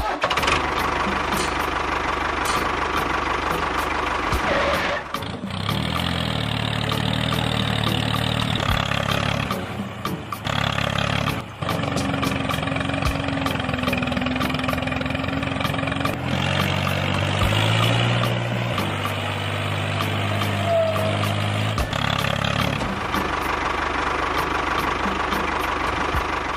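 A small engine running continuously, its pitch shifting up and down in steps several times.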